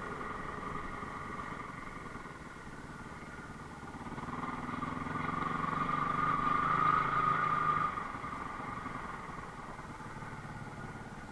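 Enduro motorcycle engine running, growing louder about halfway through, then dropping back and fading.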